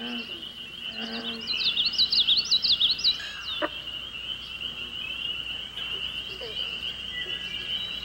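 Outdoor summer pond ambience: a songbird sings a quick run of chirping notes in the first half, over a steady high-pitched trill. A short low croaking call sounds twice near the start.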